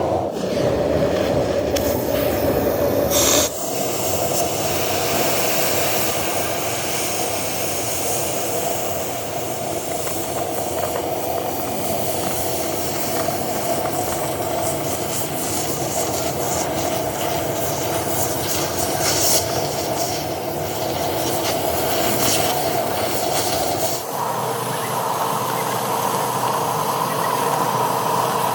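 Steady mechanical workshop noise with a strong hiss, changing abruptly about three and a half seconds in and again near the end.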